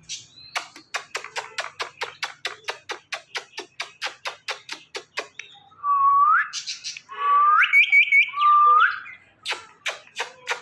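Indian ringneck parrot making a rapid run of sharp clicks, about five a second, then three rising whistles, the middle one breaking into a quick warble, then more clicks near the end.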